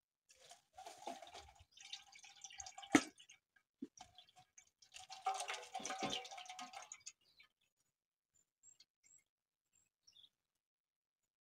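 Water from soaked juniper berries pouring and dripping through a strainer, in uneven splashes with one sharp knock about three seconds in. It stops about seven seconds in, leaving only a few faint drips.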